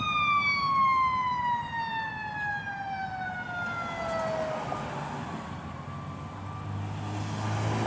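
Emergency vehicle siren winding down in one long falling tone that fades out after about four and a half seconds. A vehicle engine's low rumble then builds near the end.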